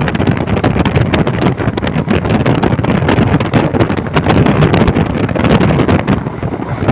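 Train running, a loud steady rumble with constant irregular rattling and clattering, and wind buffeting the microphone.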